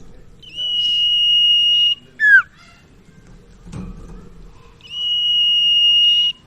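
Common iora (sirtu/cipoh) singing: a long, level, high whistle held about a second and a half, then a short, sharply falling note, with the phrase given twice.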